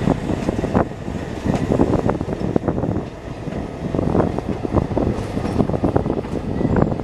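Passenger train coaches running on track: a steady rumble with irregular clanks and knocks from the wheels passing over rail joints and points.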